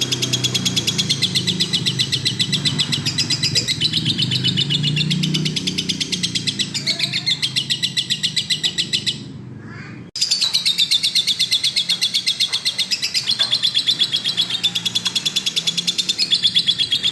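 Lovebird chattering in a long, rapid run of high, shrill chirps repeated many times a second. The song breaks off for about a second around nine seconds in, then starts again just as fast.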